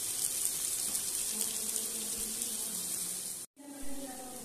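Diced pumpkin sizzling in oil in a steel kadhai, left uncovered on low heat to brown: a steady hiss. It breaks off briefly near the end and goes on fainter.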